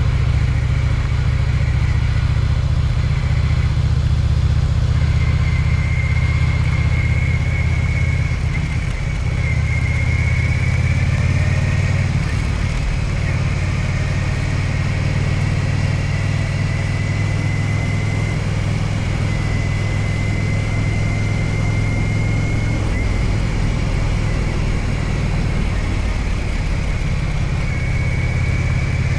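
Yamaha Virago 1100's air-cooled V-twin engine running steadily with a deep, even drone. A thin, faint high whine rides above it and rises slightly a few times.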